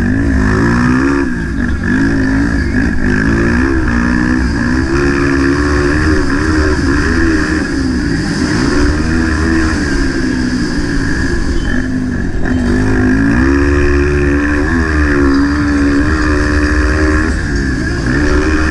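230 cc four-stroke motocross bike engine revving hard, its pitch climbing and dropping again and again as the throttle opens and closes and the gears change through the course.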